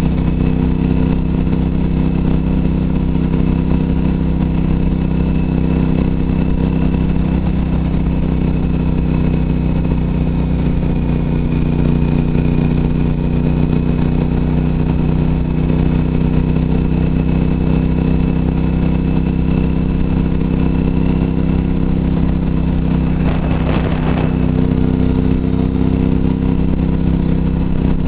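A Suzuki TL1000R's 90-degree V-twin engine running steadily at cruising speed, heard from the handlebars while riding. A brief rushing noise cuts through near the end.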